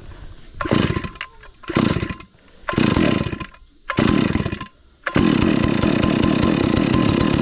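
Stihl MS 382 two-stroke chainsaw being pull-started: four quick pulls of the recoil starter, each cranking the engine briefly. About five seconds in, the engine catches and keeps running steadily.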